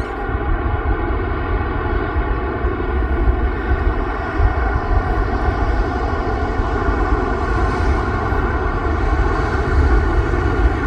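Boeing 747-8F freighter's four GEnx jet engines at takeoff power: a loud, steady low rumble under a steady whine of several tones.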